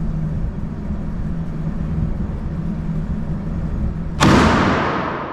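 A single 12-gauge slug shot from a Churchill tactical pump shotgun about four seconds in, sudden and loud, with a long echo dying away in the indoor range. Before it, a steady low hum.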